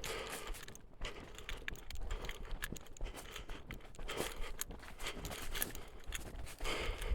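Footsteps crunching over dry ground and brush, with irregular snaps and rustles.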